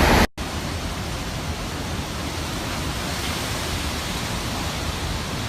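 Steady rushing noise of hurricane wind and rain, with no distinct events, following a brief dropout just after the start.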